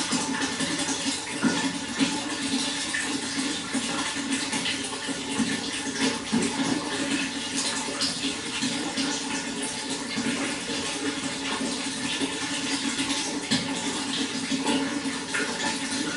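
Running water flowing and splashing steadily, with small irregular splashes throughout.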